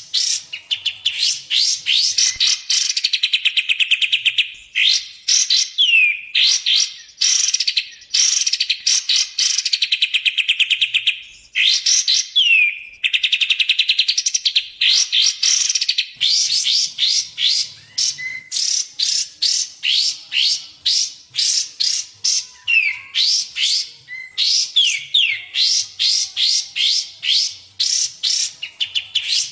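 Kapas tembak and cucak jenggot bulbul song, played as a continuous tutor recording: long runs of rapid trilled chirps broken by short downward-sweeping whistles, phrase after phrase with brief gaps.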